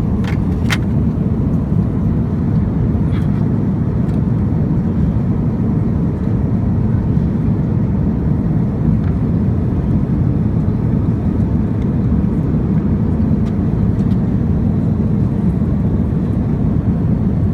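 Steady low rumble of cabin noise aboard an Airbus A350-900, with a few light clicks in the first second.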